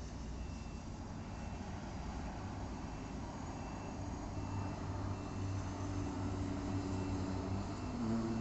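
Engines of heavy lifting machinery, the cranes setting bridge slabs, running with a steady low hum that builds around the middle and rises in pitch near the end. A short, high warning beep repeats on and off over it.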